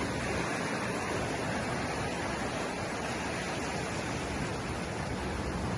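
Steady rushing noise of sea surf along a stony shore, with no distinct breaks or impacts.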